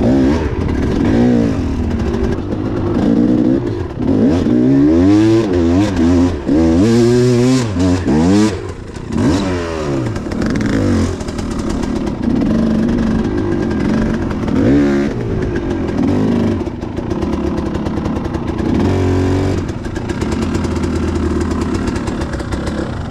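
Enduro motorcycle engine revving up and down again and again as the bike is ridden hard over rough ground, the revving heaviest in the first half.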